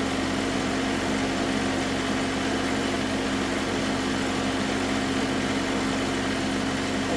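Jeep Wrangler Rubicon's engine idling steadily, with an even hum.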